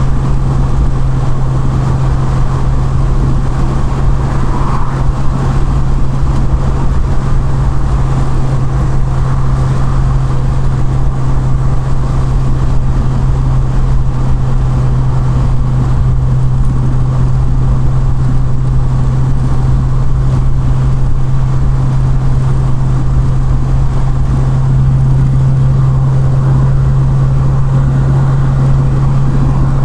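Triumph Vitesse Mk2's 2-litre straight-six engine and exhaust holding a steady drone at a cruise of about 60 mph, with road and wind noise from the open-topped car. The drone grows a little stronger near the end.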